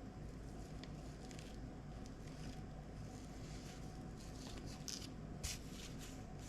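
Faint scattered rustling and small clicks over a steady low hum, a little busier near the end, cutting off abruptly.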